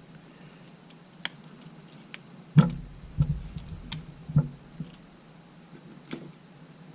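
Scattered small clicks and taps of tools and small parts being handled on a workbench, with a few louder knocks about midway through.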